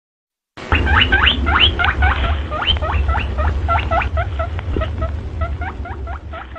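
Rabbit squeaking: a rapid run of short, high squeaks, about three or four a second, that starts abruptly about half a second in, over a steady low rumble.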